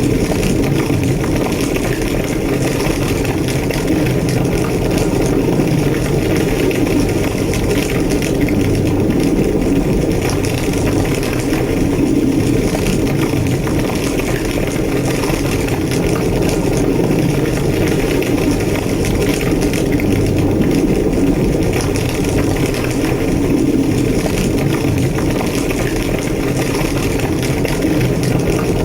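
Large structure fire burning with a steady low roar and constant crackling.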